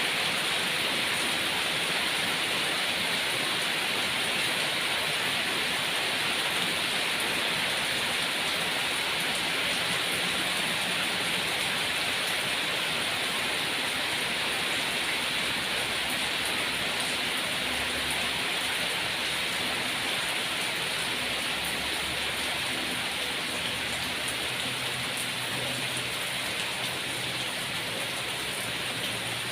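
Steady rain falling, an even hiss of drops on a surface that holds constant throughout.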